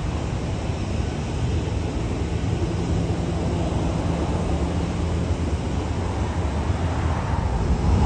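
Jet airliner engines, a steady low rumble that grows louder near the end.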